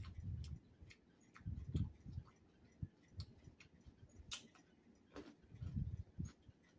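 Quiet mouth sounds of someone chewing food: scattered soft wet clicks and smacks, with a few low thumps.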